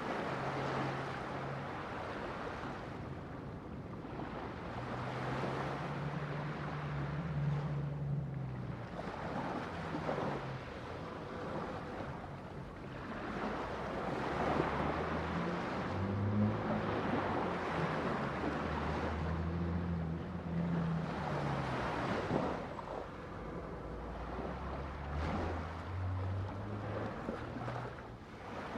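Ocean waves breaking and washing on the shore in repeated surges every few seconds. A low hum runs underneath and changes pitch in steps every few seconds.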